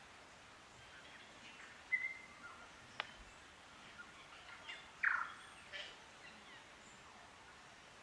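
Native New Zealand forest birds calling in scattered short whistles and chirps. A brief whistle comes about two seconds in, a sharp click about a second later, and the loudest call, a falling note, about five seconds in. A faint steady forest background lies underneath.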